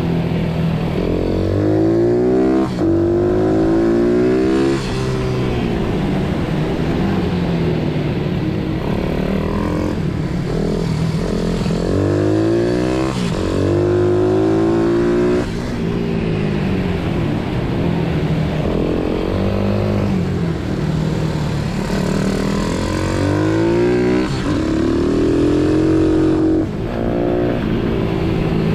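Pit bike engine revving hard under acceleration, its pitch climbing, breaking off briefly and climbing again several times over, then falling back before the next run.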